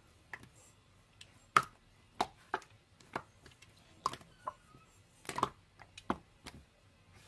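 Slime being worked by hand, giving faint, irregularly spaced sharp clicks and pops, about ten of them.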